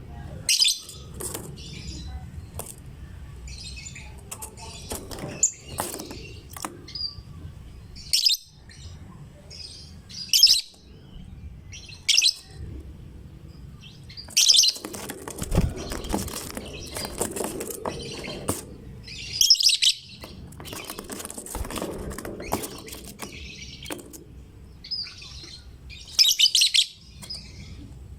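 Lovebird chirping in short, shrill bursts of rapid high-pitched notes every couple of seconds, over a low background rumble.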